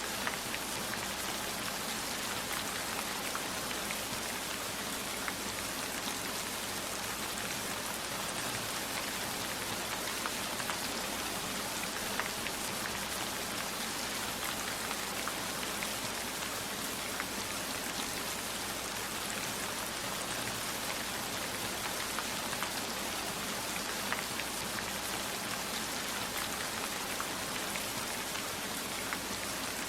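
Steady heavy rainfall, an even hiss with many scattered sharp drop ticks.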